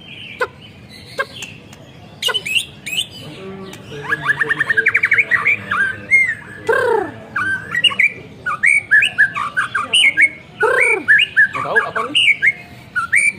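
White-rumped shama, an untrained bird, singing: a few clicks, then a rapid trill, then varied short whistled phrases with a couple of loud downward-sliding notes.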